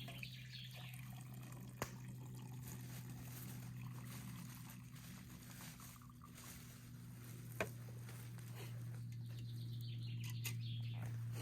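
Trickling, dripping water over a steady low hum, with two sharp clicks, one about two seconds in and one near seven and a half seconds.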